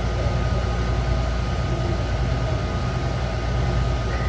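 Taichung MRT metro train running, heard from inside the car: a steady low rumble with a thin, constant whine above it.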